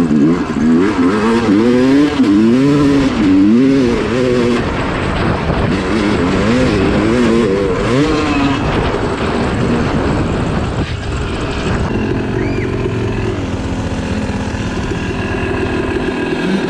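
Dirt bike engine revving up and down over and over for about eight seconds, then running at steadier, more even revs.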